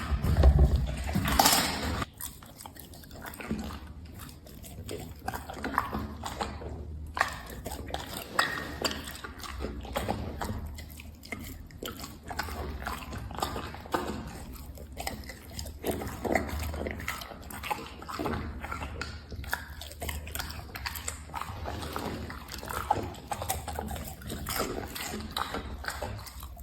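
A dog chewing and biting food: many small irregular crunching and smacking sounds over a steady low hum. A louder noise fills the first two seconds.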